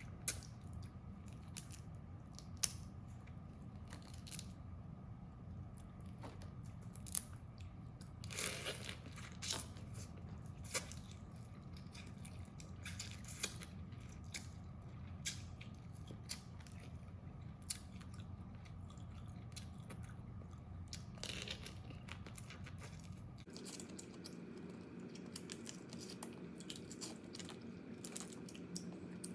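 Crab shells being cracked and gnawed close to the microphone, with scattered sharp cracks and crunches, a few longer tearing cracks, and chewing, over a steady low hum.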